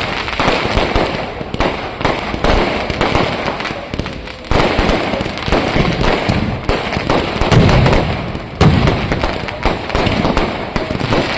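Fireworks and firecrackers going off in a dense, continuous crackle of rapid bangs, with heavier booms about four and a half, seven and a half and eight and a half seconds in.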